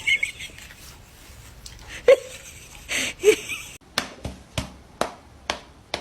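A series of sharp taps or knocks, about two a second in the second half, with a loud click and two short chirp-like sounds earlier on.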